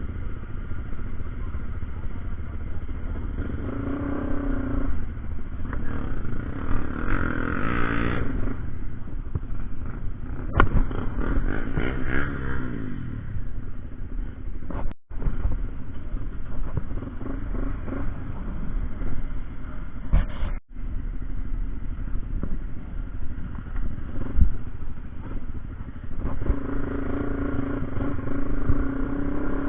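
Motorcycle engine running on the move, its pitch rising and falling with the throttle, over a heavy low rumble. The sound cuts out briefly twice.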